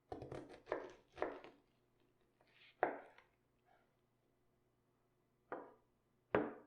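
Knife cutting through cabbage on a cutting board: about six separate cuts, three in quick succession and then three spaced out, each with a short crisp tail.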